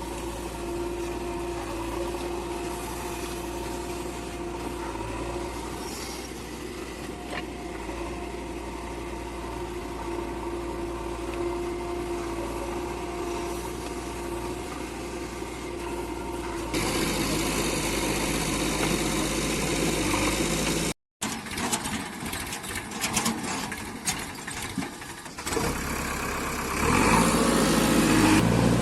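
Diesel engine of a JCB 3DX backhoe loader running steadily. The sound changes abruptly a few times, getting louder and fuller after the middle, with a brief dropout just past the middle.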